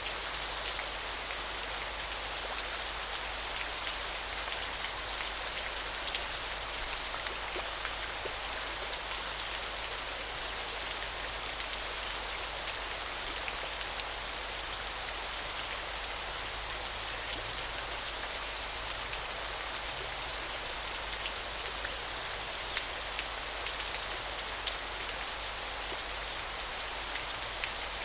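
River water flowing in a steady rushing wash. Over it, a thin, very high note of one pitch repeats in bursts of one to two seconds with short gaps, and stops near the end.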